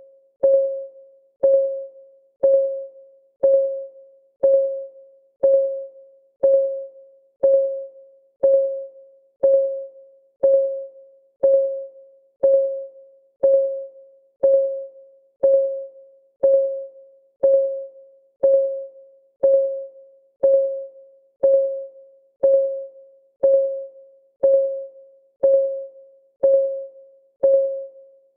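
Countdown timer's clock-ticking sound: a steady tick once a second, each a short pitched tock that dies away quickly.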